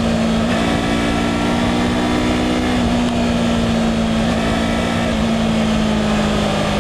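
2016 Yamaha R3's parallel-twin engine running at steady revs while riding, with heavy wind rumble on the microphone. The engine pitch holds nearly level, with a few small shifts.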